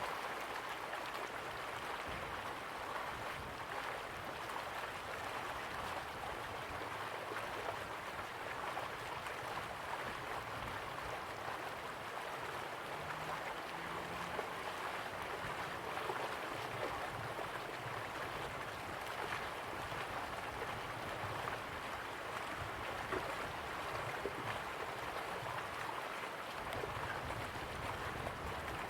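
River water flowing slowly, a steady rushing with fine bubbling and trickling.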